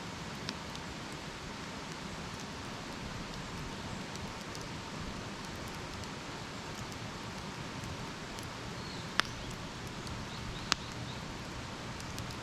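Wood campfire burning: a steady hiss with a few sharp crackling pops, the two loudest about nine and ten and a half seconds in.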